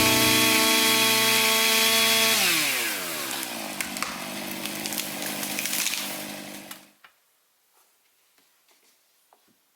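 Chainsaw running at full throttle, then the throttle is released and the revs fall away; it idles for a few seconds and is shut off about seven seconds in, leaving near silence with faint ticks.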